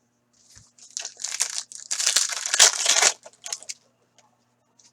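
Foil wrapper of a hockey card pack being torn open and crinkled, a dense rustle lasting about two seconds, followed by a few light rustles and ticks.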